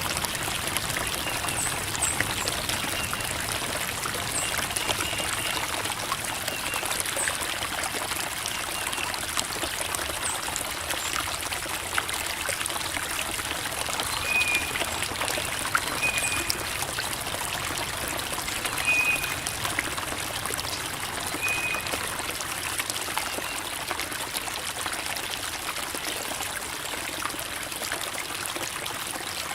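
Creek water babbling and trickling over rocks, a steady rushing sound, with a few short high-pitched notes over it now and then.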